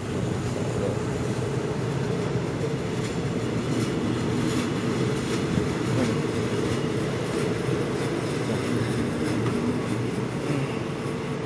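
Passenger train coaches rolling past close by: a steady rumble of steel wheels on the rails, with light clicks scattered through it.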